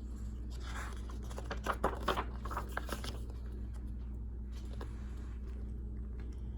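Paper rustling and a few light clicks as the pages of a picture book are handled and turned, over a steady low hum.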